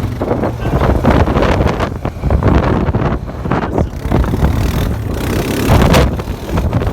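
Vehicle engine running, heavily buffeted by wind on the microphone.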